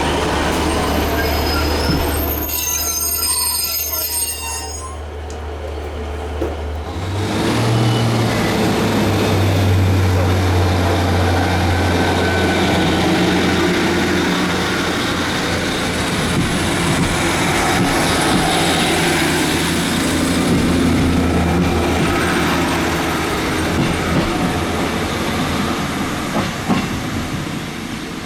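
Diesel train running close by: a brief high metallic squeal about two to five seconds in, then the engine note steps up about seven seconds in and carries on as a steady low drone with rolling rumble.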